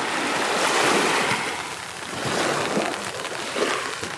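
Sea waves washing onto the shore, a rushing noise that swells and ebbs.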